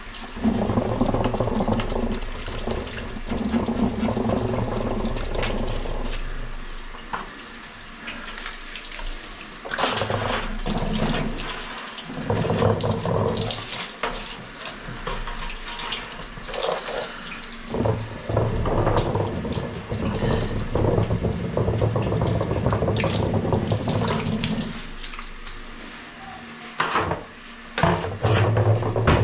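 Running water splashing in stretches that start and stop every few seconds, with scattered knocks and clatter, as washing machine parts are rinsed.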